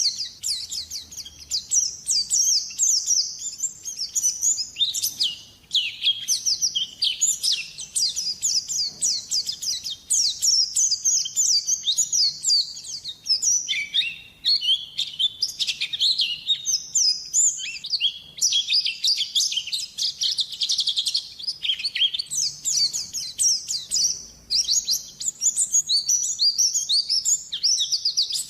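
White-eye (pleci) singing a long, fast, high-pitched twittering song almost without a break, pausing only briefly a few times: the bird is in full, continuous 'gacor' song.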